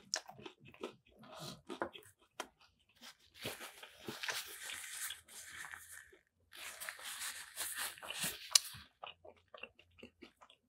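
Close-up chewing of a crispy fried Nashville hot chicken sandwich, the breading crunching in the mouth. Short scattered crunches at first, then two longer stretches of dense crunching starting about three and a half and about seven seconds in.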